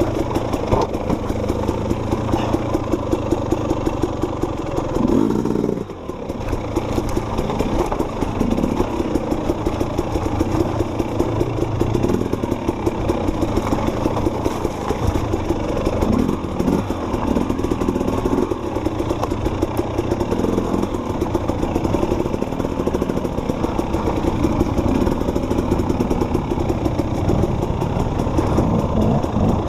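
Dirt bike engine running under changing throttle, the pitch rising and falling as it revs. The engine sound drops briefly about six seconds in, then picks back up.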